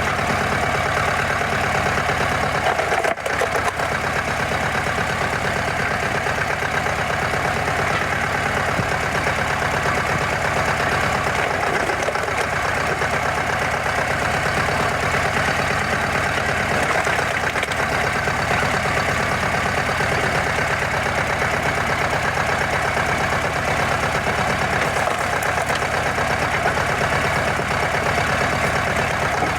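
Log splitter's engine running steadily, with a short break about three seconds in.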